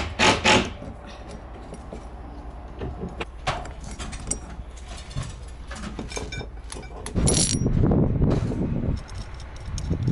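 Scattered clicks and knocks of hand work on roof panels and tools, with a louder low rumble lasting about two seconds near the end.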